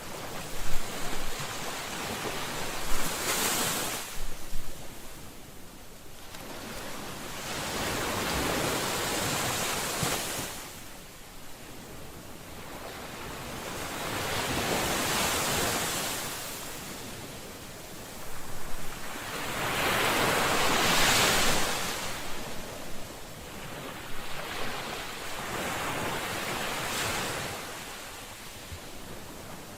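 Ocean waves breaking on a shore, the surf swelling and falling back about every six seconds, with a few sharper splashes in the first few seconds.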